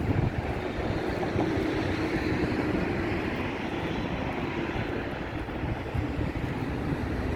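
Steady rushing noise, likely the park's artificial waterfall, with wind buffeting the microphone and a faint steady hum in the middle.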